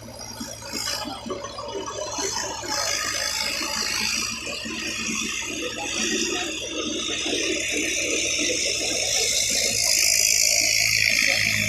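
Tractor's diesel engine running with a rattle, growing steadily louder.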